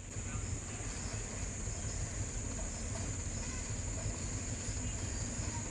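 Loaded truck's engine running low and steady as it crawls along, with a steady high insect drone over it.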